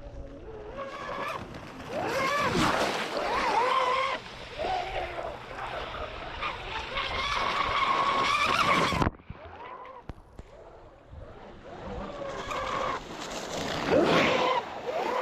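Radio-controlled speedboat's motor running on the water, its pitch repeatedly rising and falling as the boat passes close by and turns. The sound cuts off abruptly about nine seconds in, then the motor is heard again building up and passing near the end.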